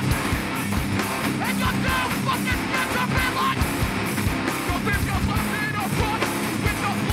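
Hardcore band playing live: distorted guitars, bass and pounding drums, with shouted vocals over them.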